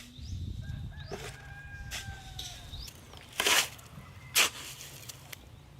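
A rooster crows once for about a second. Then come two loud, sharp noisy hits about a second apart, over a low background rumble.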